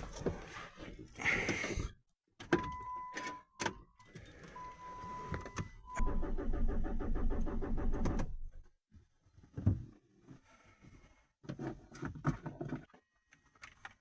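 Chrysler Grand Voyager being started: a key rattles, a steady warning chime sounds for a few seconds, then the starter cranks the engine for about two and a half seconds and it does not catch. It is a no-start, which the owner puts down to a crankshaft timing error and no fuel in the system.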